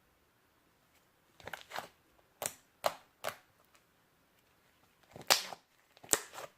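Slime being handled and squeezed, giving a string of short, sharp clicking pops in small clusters, with a pause in the middle.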